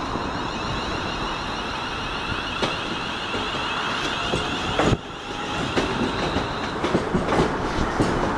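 A train running along the rails, with a steady rumble and a thin high whine. Single wheel clicks come over rail joints, and they become more frequent near the end.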